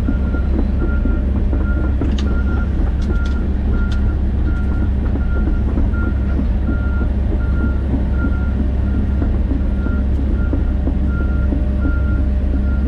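John Deere 130G excavator's diesel engine running steadily while a travel alarm beeps, one short beep roughly every two-thirds of a second. A few sharp clicks come about two to four seconds in.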